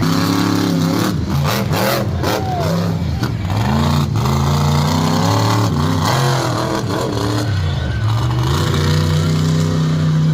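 A big truck engine revving hard, its pitch rising and falling again and again, then held at a steady high pitch near the end.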